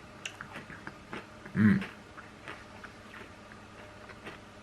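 Chewing a mouthful of soft serve with crunchy frosted animal cookie pieces, heard as a run of small, sharp crunches. A short hummed "mm" about a second and a half in.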